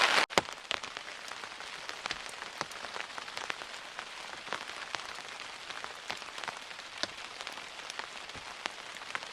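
Steady rain falling, a constant hiss with individual drops tapping sharply every fraction of a second.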